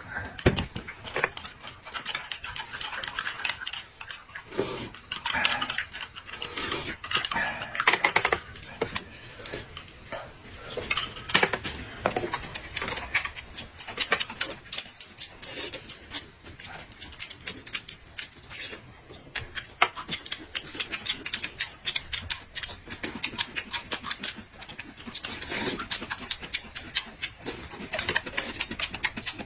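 Close-up eating sounds: rapid chewing and smacking, many short clicks in quick succession throughout.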